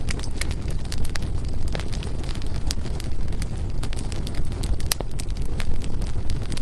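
Firewood burning in a fireplace, crackling with frequent irregular pops over a steady low rumble; one sharper snap stands out about five seconds in.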